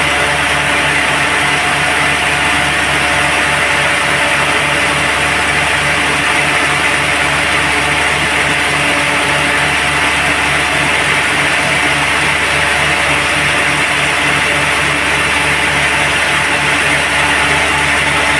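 Sawmill machinery running steadily, with an even, regular low throb.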